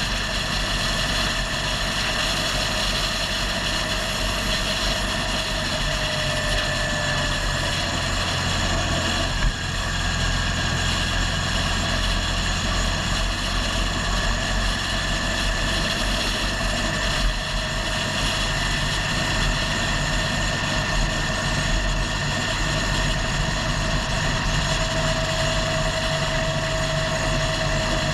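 Motorcycle engine running steadily on the move, with a constant rush of noise and a faint whine that drifts slowly up and down in pitch.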